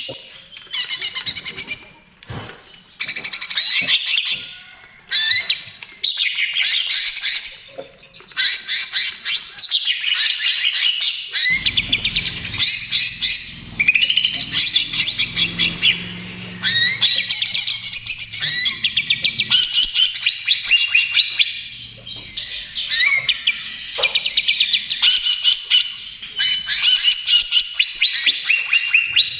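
Greater green leafbird (cucak ijo) singing in long, rapid runs of high chirps and trills, broken by short pauses.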